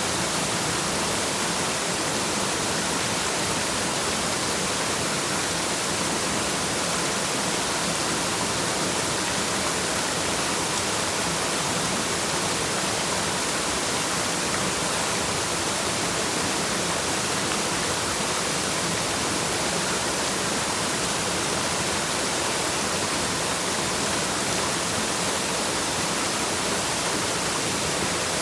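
Waterfall: a steady, unbroken rush of falling water, with most of its energy in a high hiss.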